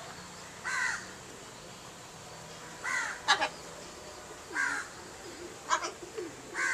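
Harsh cawing bird calls: about four short caws spaced a couple of seconds apart, with a few sharper, briefer calls between them.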